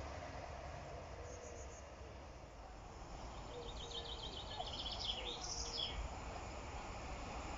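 Outdoor background rumble with a small bird singing a quick run of high repeated chirps from about three to six seconds in.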